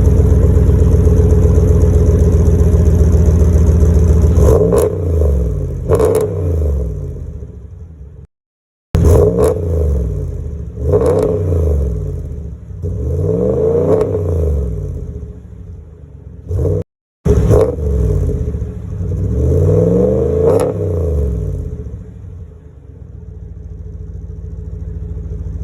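2019 Ram 1500's 5.7-litre Hemi V8 with its mid muffler deleted, idling, then revved in a string of about seven quick throttle blips before dropping back to idle near the end. The exhaust has a leak-like note from the weep holes in the remaining rear resonators.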